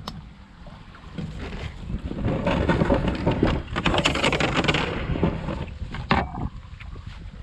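Wind buffeting the microphone with a steady low rumble, a louder rushing, crackling stretch in the middle, and a single sharp knock about six seconds in.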